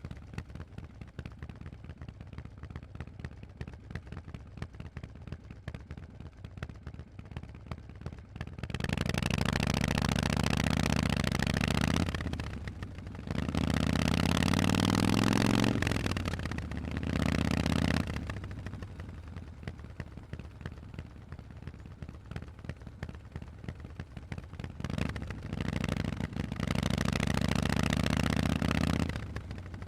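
Harley-Davidson Forty-Eight's air-cooled 1200 Evolution V-twin through Vance & Hines exhausts. It runs low at first, then about nine seconds in opens up into loud pulls whose pitch climbs and falls, broken by short dips like gear changes. It settles back low, then pulls hard again near the end.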